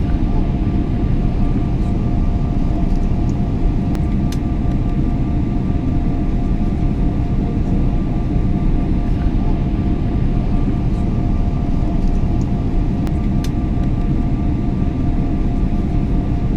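Airliner cabin noise in cruise: a steady, even low rumble of engines and airflow with a faint constant hum on top. A few faint ticks come about four seconds in and again near the thirteen-second mark.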